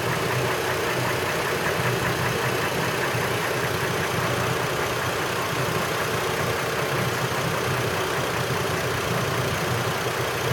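2003 Chevrolet TrailBlazer's 4.2-litre straight-six engine idling with a rhythmic upper-engine knock. The knock fades away while the PCV tube into the valve cover is blocked with a finger.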